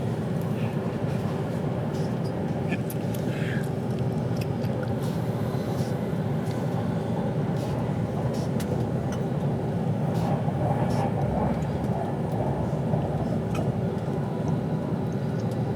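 Steady low rumble of a passenger train running at speed, heard from inside the carriage, with a constant hum and scattered light clicks and ticks.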